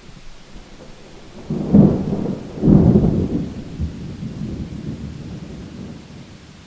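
Thunderclap over steady rain: a sudden crack about one and a half seconds in, a second, louder peak a second later, then a low rumble that dies away over the next few seconds.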